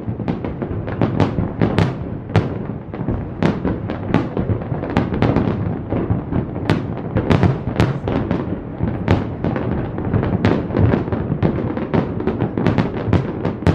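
Fireworks display: a dense, continuous rumble of booms with many sharp bangs in quick, irregular succession.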